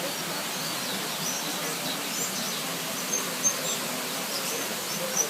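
Weaver birds chirping: short, high chirps scattered over a steady rushing background noise, with two sharper chirps louder than the rest, about three and a half and five seconds in.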